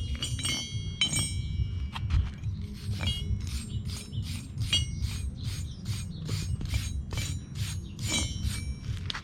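Light metal-on-metal taps on a freshly welded steel bracket, each clink ringing briefly. Irregular at first, then evenly at about three a second until near the end.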